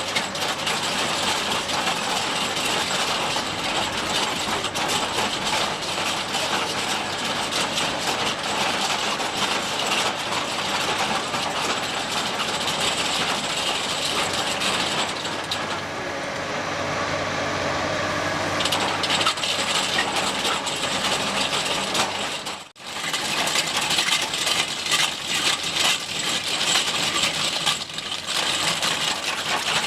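Alpine TC-E hydraulic rock grinder's rotating cutter drum grinding hard limestone: a dense, rapid clattering and crunching of the picks on rock, with the excavator's engine running beneath. For a couple of seconds past the middle the clatter eases and the engine hum comes forward, and the sound drops out for an instant about two-thirds of the way through before the grinding resumes.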